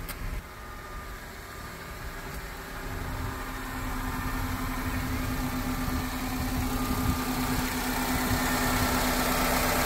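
2003 Honda Accord engine idling steadily. It is muffled at first and grows louder as the microphone comes round to the open engine bay.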